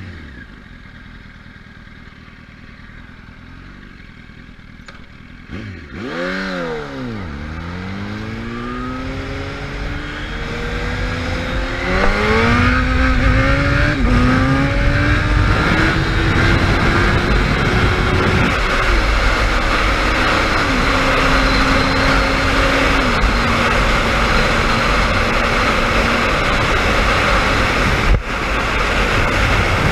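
Sport motorcycle engine idling quietly, then revved about six seconds in and pulling away hard, its pitch climbing and dropping back at each upshift through the gears. Loud wind rushing over the microphone builds as speed rises.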